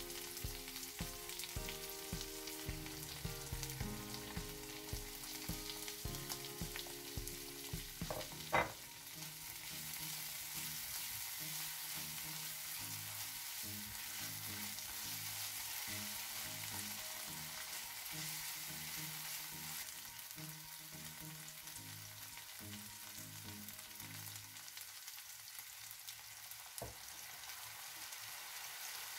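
Onion, green capsicum and cherry tomatoes sizzling in a nonstick frying pan as they are stirred with a silicone spatula. A single sharp knock comes about a third of the way in, and the sizzle is steadier and stronger after it. Soft background music plays underneath.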